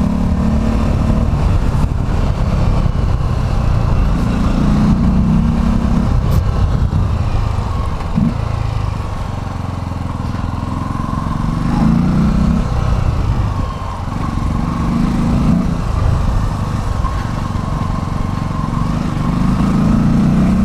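Motorcycle engine running while riding, its pitch and level rising and falling several times with the throttle.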